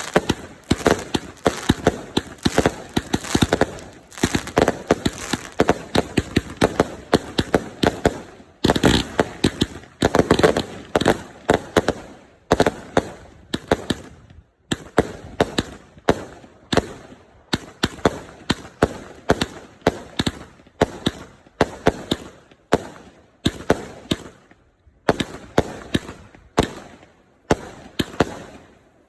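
Two 100-shot consumer firework cakes firing together: a rapid, irregular run of sharp bangs, several a second, spacing out a little in the second half.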